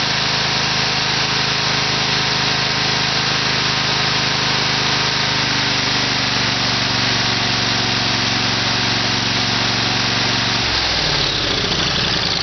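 Briggs & Stratton 20 hp twin-cylinder engine running at a steady speed, then slowing near the end, its pitch falling.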